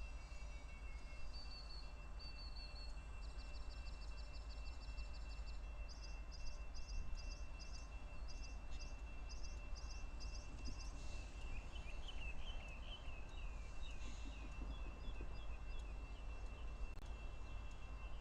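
Songbirds singing in turn over steady low background noise. First come fast trills, then a run of short, high repeated notes, and from the middle on a series of quick downward chirps, with a thin steady high tone beneath them.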